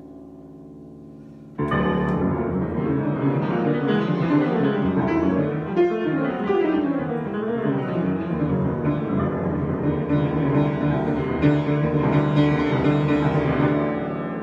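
Solo piano improvisation. A soft held chord lingers, then about one and a half seconds in a loud attack opens a dense passage of fast, moving notes. It settles into a held, ringing chord at the end.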